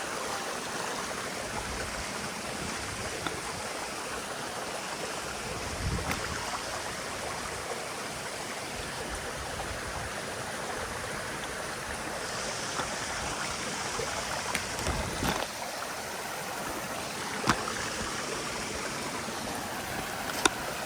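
River water flowing with a steady, even rushing, with a few sharp clicks near the end.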